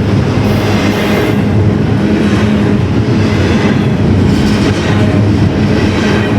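A train running by on the tracks, steady and loud, with a constant low tone under the rolling noise.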